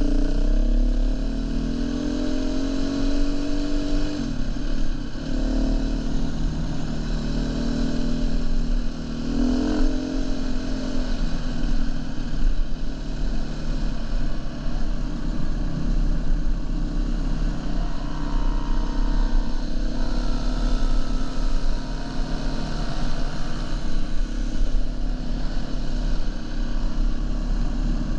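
Dirt bike engine running under way on a trail, climbing in pitch through the first few seconds, dropping back, then climbing again, over a steady low rumble of riding noise.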